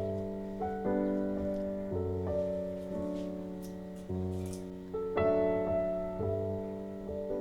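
Slow, quiet solo piano background music, single notes and chords struck and left to fade.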